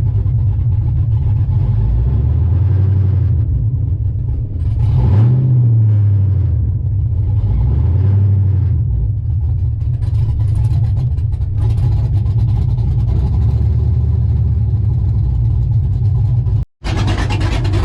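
LS V8 in a Chevy pickup running on open headers with no exhaust, loud, while driving; the engine note rises and falls a few times as the truck speeds up and eases off. Near the end the sound cuts out for a moment and comes back harsher and noisier.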